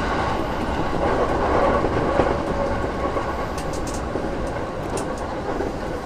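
E233 series electric train running on the rails, a steady rumble of wheels and track with a few light clicks, gently getting quieter as it slows for the station stop.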